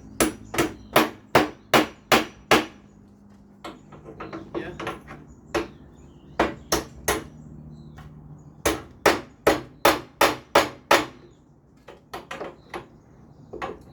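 Hammer blows bending over protruding nails against a second hammer held behind as a backing, clinching them so they hold a piece firmly. There are two quick runs of about seven sharp strikes each, roughly two or three a second, with a few scattered blows between and lighter taps near the end.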